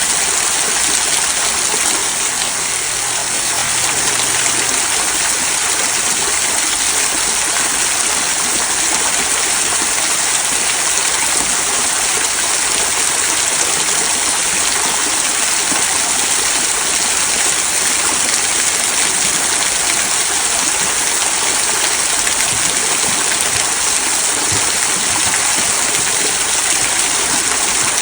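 Small rock waterfall trickling and splashing over stones into a stream: a steady, even rush of water.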